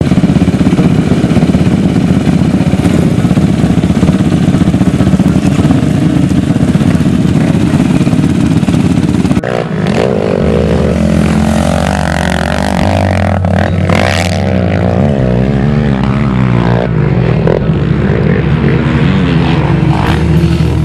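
Racing quad's engine running hard at high revs. About nine seconds in, music with held bass notes comes in over it, and the engine is still heard beneath.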